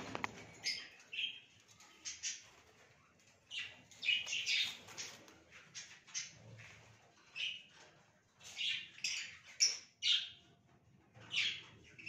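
A caged pet bird chirping in short, separate calls about once a second, some sliding down in pitch. A sharp knock comes right at the start.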